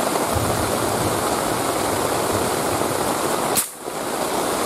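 Fast-flowing river water rushing steadily, with a sharp click and a brief drop-out about three and a half seconds in.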